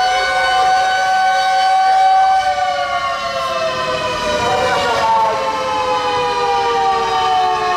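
Tokyo Fire Department fire engine sirens wailing, several overlapping at different pitches. Their pitch holds steady, then falls slowly from about two seconds in.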